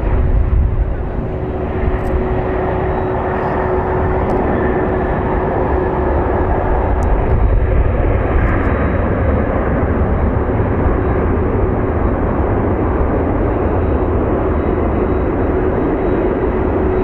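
Jet airliner, an Airbus A350 XWB with Rolls-Royce Trent XWB turbofans, running steadily: a deep rushing noise with a thin whine held on one pitch.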